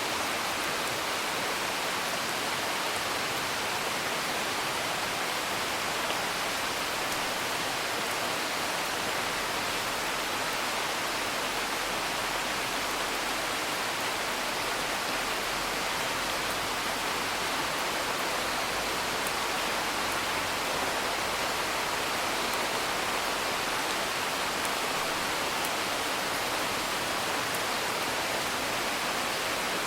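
Steady, even rain heard from indoors, a constant hiss, with a few faint crackles from a wood fire.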